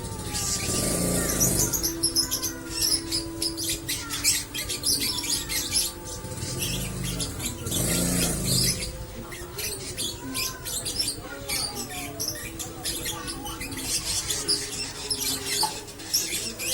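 Lovebird singing a long, continuous 'ngekek' chatter in the 'konslet' style: a fast run of squeaky chirps, clicks and short pitch glides with hardly a break.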